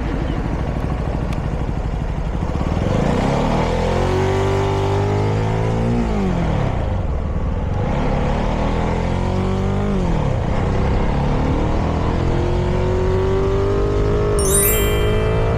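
Vehicle engine accelerating up through the gears: its pitch climbs, drops at a shift about six seconds in, climbs and drops again near ten seconds, then holds steady under constant road and wind noise. A brief high chirp sounds near the end.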